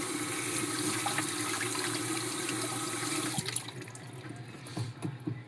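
Kitchen tap running into a sink, turned off a little over halfway through, followed by a few light knocks and clicks.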